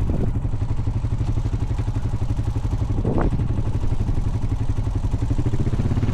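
Honda Foreman 520 ATV's single-cylinder engine running steadily under load while towing another ATV, with one short swell about three seconds in.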